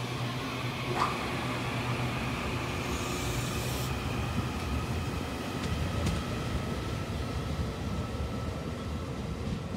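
Taiwan Railways EMU800 electric multiple unit departing a station, its cars rolling past in a steady rumble with faint steady high tones above it. A single sharp click comes about a second in.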